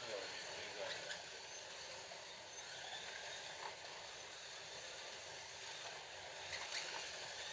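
Scalextric slot cars running on the track: a steady whir of small electric motors and tyres, with a few light clicks.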